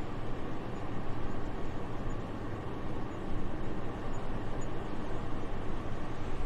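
Soft, steady winter wind: an even, airy rushing noise that swells and eases slightly, with a low rumble underneath.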